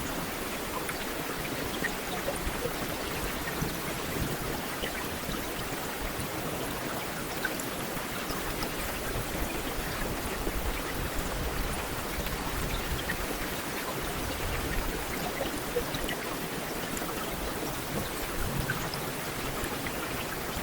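Heavy rain falling steadily, a continuous even hiss with scattered individual drop ticks.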